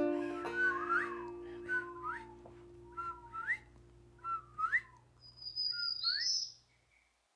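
Whistled whippoorwill-style calls, each a short steady note flicking up into a quick rising sweep, repeated about five times, over the last plucked-string note of the song dying away. Everything fades out to silence near the end.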